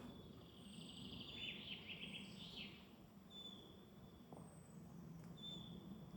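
Faint woodland birdsong: a bird repeats a short, high, thin note about every two seconds, and in the first half another gives a quick warbling, trilled phrase. Under it runs a steady low background rumble.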